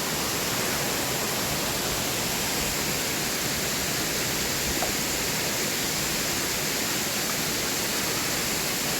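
Waterfall cascading, a steady rush of falling water with no change throughout.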